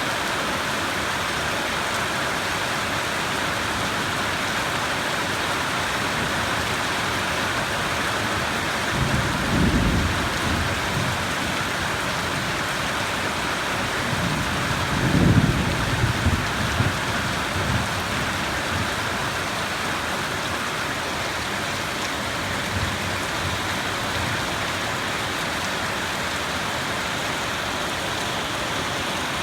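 Steady rain hissing, with two low rumbles of thunder: one about nine seconds in and a louder, longer one about fifteen seconds in.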